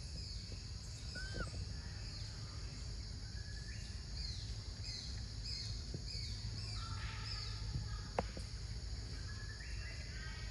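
Birds calling in a forest: a run of short, quick falling chirps, densest in the middle, over a steady low rumble of outdoor background noise. A single sharp click near the end.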